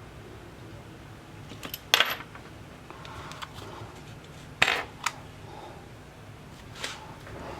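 A few sharp clicks and clatters of small hard objects being set down on a work surface. The loudest come about two seconds in and just before five seconds, with lighter ones after, over a low steady hum.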